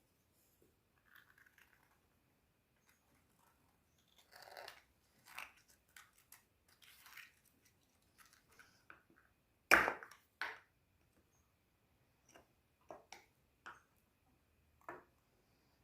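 Scattered small clicks, taps and scrapes of parts being handled, with one sharper knock about ten seconds in.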